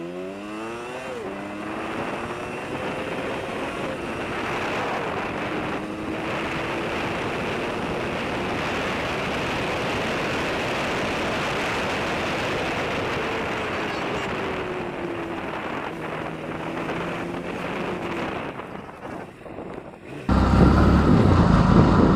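A motorcycle riding on the road with heavy wind noise on the microphone. The engine picks up speed at the start and then holds a steady cruise. About twenty seconds in it changes abruptly to a louder, low rumble.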